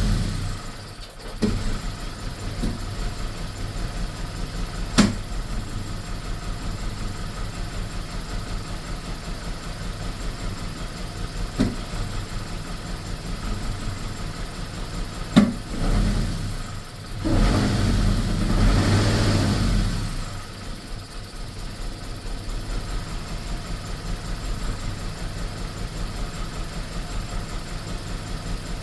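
BMW E46 318's four-cylinder engine idling roughly with misfires, its sound pulsing unevenly. A few sharp clicks come through it, and about two-thirds of the way in the engine swells louder for about three seconds before settling back to the rough idle.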